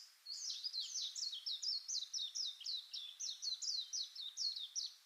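Bird chirping in a quick, steady series: short, high chirps, each sliding downward in pitch, several a second.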